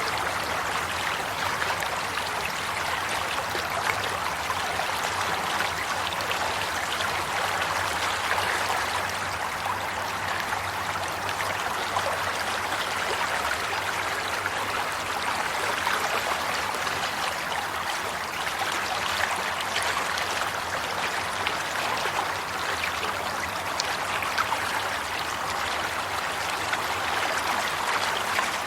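Steady flowing water, like a stream running over rocks, with a continuous splashing, trickling texture.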